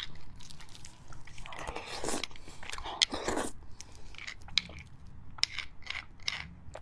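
Close-miked biting and chewing of beef bone marrow with sinew in it: a run of sharp, wet clicks and crunches, with two longer, noisier stretches about two and three seconds in.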